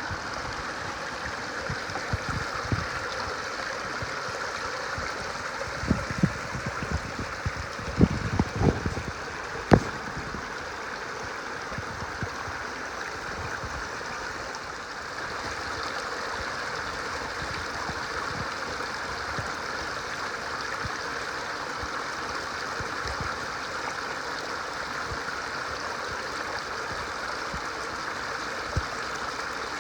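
Spring water flowing steadily, a stream-like rush, with a few low thumps about six to ten seconds in.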